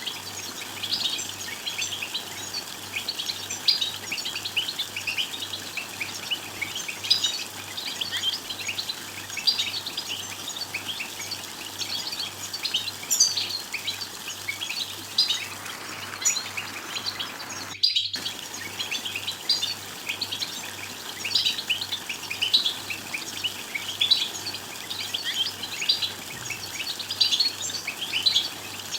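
European goldfinch twittering: a steady stream of quick, high chirps and trills, the chatter used to stir caged goldfinches into song. The sound cuts out briefly about eighteen seconds in.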